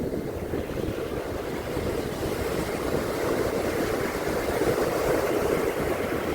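Sea surf washing onto a beach, a steady rush that swells a little midway, with wind buffeting the microphone.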